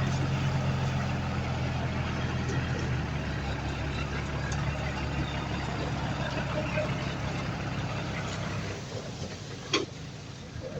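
Heavy diesel engine of earthmoving machinery running steadily, fading away about nine seconds in, with a single sharp knock near the end.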